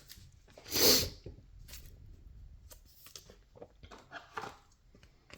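Trading cards and pack wrappers being handled: a short, loud rustle about a second in, then soft card slides and small clicks.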